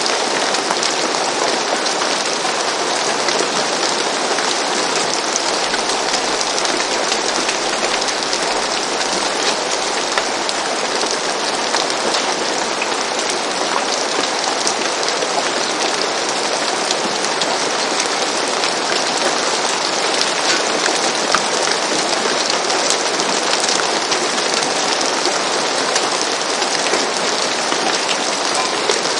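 Steady rain falling on a roof, an even hiss of dense drops with scattered individual drop ticks.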